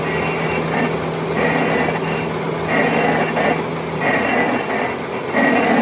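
Metal lathe running while machining a cast iron V-belt pulley, with a steady motor hum and a scraping cut that swells and fades about every second and a half. The hum drops away about four seconds in.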